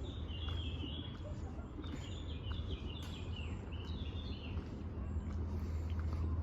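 A small songbird chirping in quick, short phrases of high notes, with a pause about a second in and the song fading after about four and a half seconds, over a steady low rumble of background noise.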